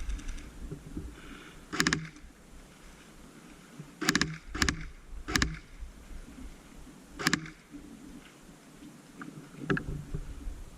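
Airsoft gun fired in single shots: six sharp pops spread unevenly, over a low rumble of wind and handling noise on the microphone.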